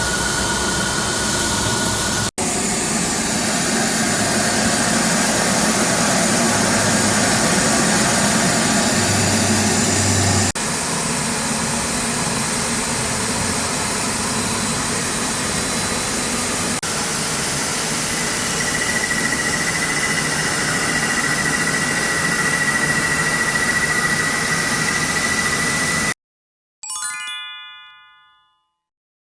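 CNC machine tools cutting plastic stock: a steady, loud machining hiss with a faint whine, changing abruptly a few times. It stops suddenly near the end and a short ringing chime fades out.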